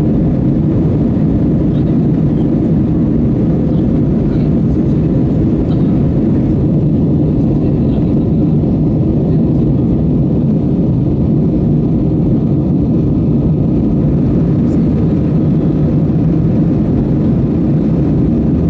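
Jet airliner's engines and airflow making a loud, steady low rumble that holds level throughout, with no rise or fall in pitch.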